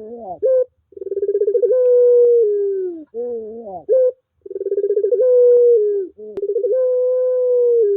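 Puter pelung turtle dove cooing repeatedly. Each call opens with a quick stuttering run of notes, then a long steady coo that sags in pitch at its end, then a wavering, twisting phrase and a short rising note. Two full calls are heard, and a third begins near the end.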